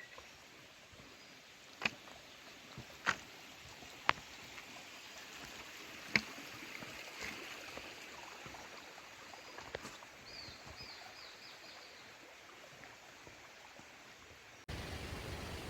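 Faint open-air trail ambience with a handful of sharp taps in the first few seconds, a short run of high bird chirps about ten seconds in, and a sudden switch to a louder, steady rushing noise near the end.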